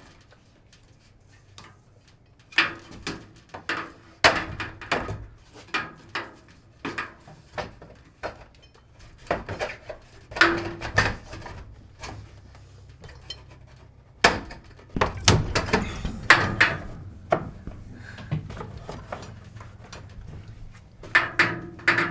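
Irregular knocks, taps and clatter of hand work on wooden wall framing while PEX tubing is fitted through a stud, heaviest in clusters around four, ten and fifteen seconds in. A faint steady low hum runs underneath for most of the time.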